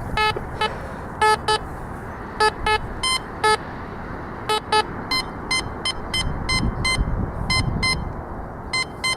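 Metal detector giving a rapid string of short target beeps, a couple a second, alternating between a lower and a higher tone as it sweeps over a hole full of buried metal targets.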